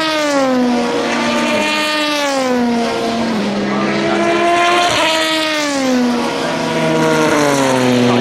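Endurance race cars passing at speed one after another, their engine notes falling in pitch as each goes by, dropping in steps like downshifts.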